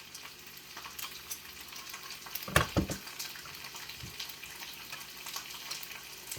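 Ginger frying and crackling in oil in a pan on high heat. Two louder knocks about two and a half seconds in.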